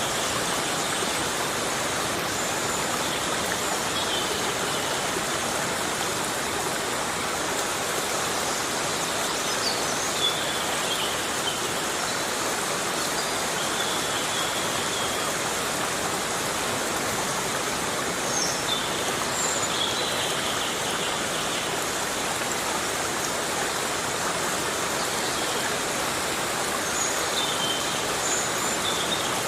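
Heavy rain falling on forest foliage: a steady, even hiss. Now and then short high chirps come through it, several of them in the middle and near the end.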